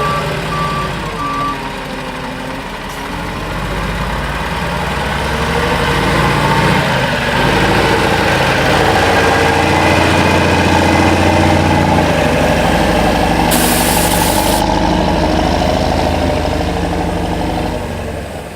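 Volvo A25B articulated dump truck's diesel engine running, getting louder a few seconds in as it works harder and easing off near the end. Its reversing beeper sounds for the first second and a half, and there is a short burst of hiss near the end.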